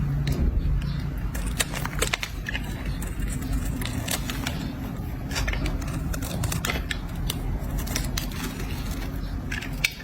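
A blade scraping and cutting into a bar of soap: crisp, irregular crackling clicks, several a second, over a steady low rumble, with one sharper click near the end.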